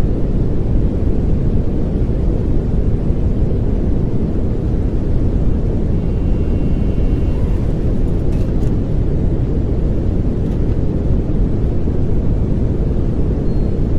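Steady pink noise: an even, deep rushing hiss, heaviest in the low end, that holds at one level without change.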